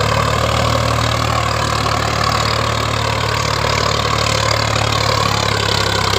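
Sonalika 47 DI RX tractor's diesel engine running at a steady speed, with an even hum and no revving.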